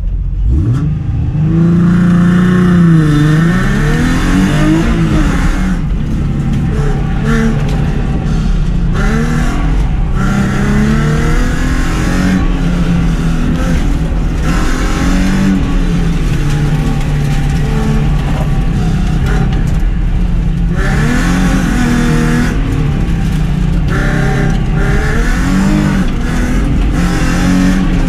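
Car engine being driven hard on an autocross course, revving up and easing off again and again, its pitch rising and falling with each stretch of throttle.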